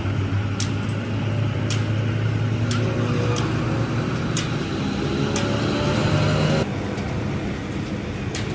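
A motor-driven machine running with a steady low hum, and sharp clicks about once a second. Part of the hum cuts off suddenly about six and a half seconds in, while a lower running sound goes on.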